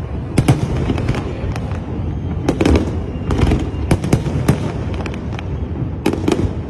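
Aerial fireworks display: a rapid, irregular series of sharp bangs and cracks over a continuous low rumble, several bursts often coming close together.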